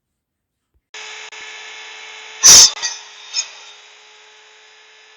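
A small power tool running steadily with a fixed hum, starting abruptly about a second in. About halfway through there is one loud, short hard knock or scrape, followed by two lighter knocks.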